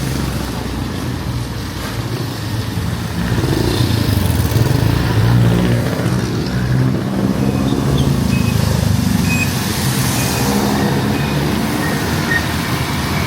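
Street traffic: motor vehicle engines running close by in a steady drone, growing louder a few seconds in and staying loud.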